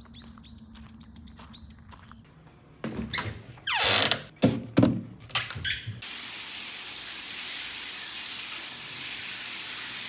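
A bird chirping in a quick run of short repeated calls, then a few loud knocks and rustles. About six seconds in a steady, even hiss starts and holds.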